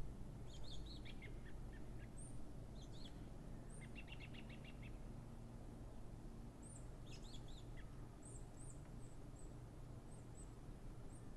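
Small birds chirping and twittering faintly, with a quick run of rapid notes about four seconds in, over a steady low background rumble.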